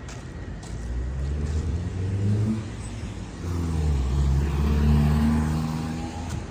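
Car engine accelerating, its pitch rising, dipping briefly about three seconds in, then rising again and holding before fading near the end.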